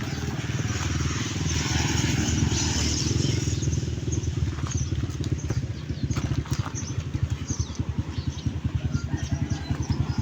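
A motor engine running close by with a low, pulsing beat that becomes a clear throb of about three to four beats a second in the second half, with a few knocks and clatters over it.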